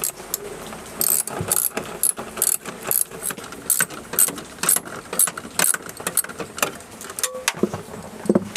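Ratchet wrench clicking in repeated back strokes, about two a second, while undoing the nuts and bolts that hold a wiper motor.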